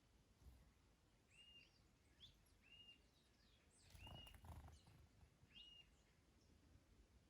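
Small garden birds calling: short, hooked chirps repeated every second or so, with thinner high notes between them. About four seconds in, a brief low rumble joins them.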